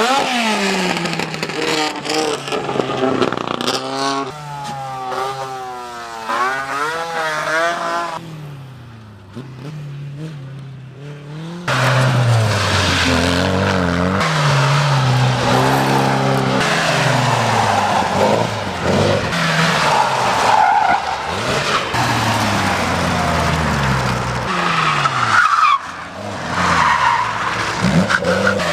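Classic car engines revving hard and dropping back again and again through a tight gymkhana course, with tyres squealing through the turns. The sound jumps suddenly louder about twelve seconds in, where another car's run begins.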